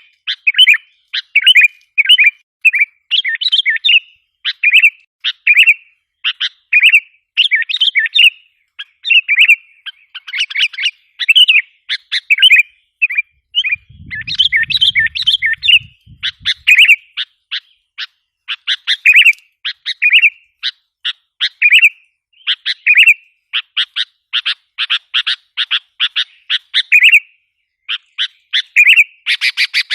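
Sooty-headed bulbul (kutilang) calling in a rapid, unbroken series of short, sharp chirps: an agitated lure (pikat) call used to provoke wild bulbuls.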